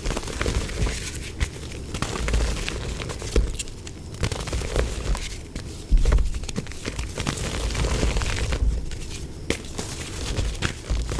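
Dried mud being crushed and crumbling, with irregular crackling, crunching and low thuds.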